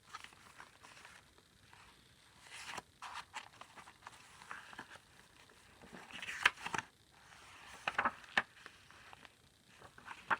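Paper pages of a handmade junk journal being handled and turned: intermittent rustling and crinkling with small ticks and scrapes, in louder flurries about a quarter of the way in, past the middle and again a little later.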